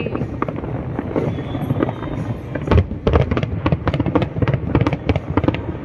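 Aerial fireworks display: many shell bursts and crackles going off irregularly, the loudest cluster about three seconds in, with music playing underneath.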